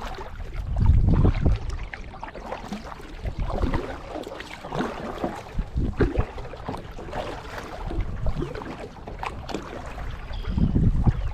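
Water splashing and dripping around a kayak, with small irregular splashes throughout. Wind gusts on the microphone about a second in and near the end.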